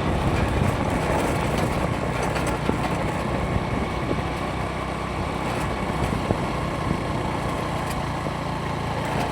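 Vehicle engine running with road noise, heard steadily while driving along a road.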